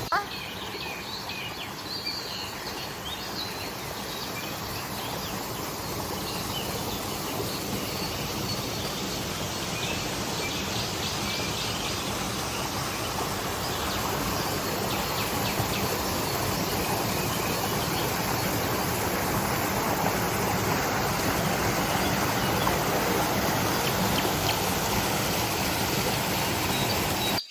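Steady rushing of a creek and small waterfall, growing slowly louder, with a few bird chirps in the first seconds.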